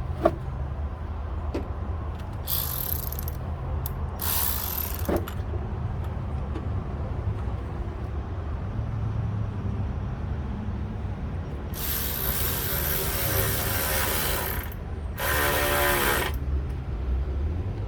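Ratcheting clicks in short bursts as the lower radiator hose is fastened: two brief runs, then a longer run of about two and a half seconds and a last one of about a second.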